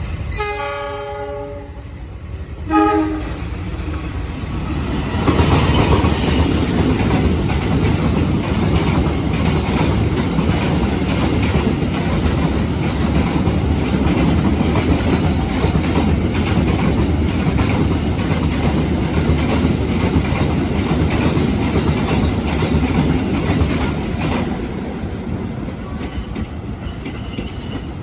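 Passing train: the locomotive horn sounds one blast, then a short second toot. After that comes a loud rumble with the clickety-clack of wheels over rail joints as the train runs past, easing off near the end.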